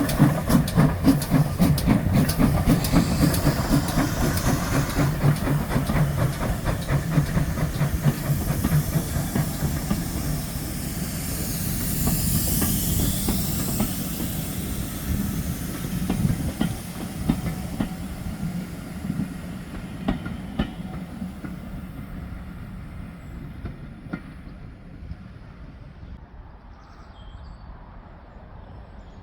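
GWR steam locomotive with its train passing and drawing away, with fast rhythmic beats and clatter that are loud at first and fade steadily. A rush of high hiss swells about halfway through.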